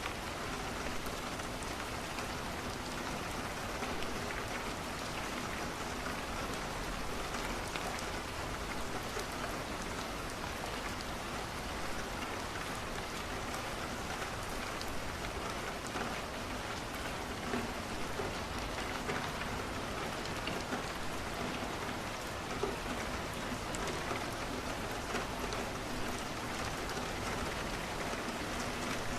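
Steady rain falling against a window, with the faint crackle of a wood fire scattered through it.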